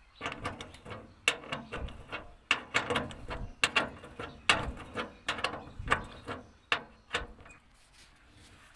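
Hand tools working on metal parts: a rapid, irregular run of clicks, clinks and short scrapes that stops a little after seven seconds in.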